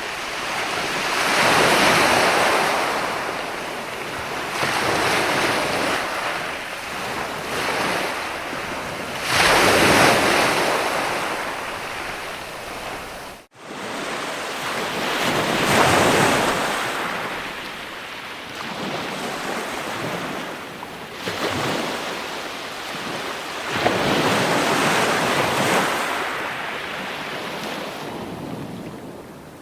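Ocean waves surging and washing in, the noise swelling and fading again every few seconds. The sound cuts out for an instant about halfway through.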